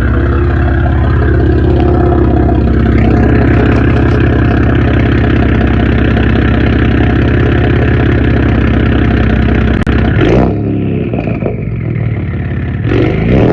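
A 2.7 EcoBoost twin-turbo V6 runs through catless downpipes and a 3-inch exhaust, with a loud, steady exhaust note. After about ten seconds it drops to a quieter idle and is revved twice briefly.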